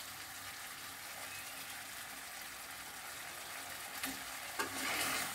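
Potato and green cauliflower curry sizzling in a steel kadai on low heat, its water nearly cooked off. A spatula stirs it, and the stirring and scraping get louder near the end.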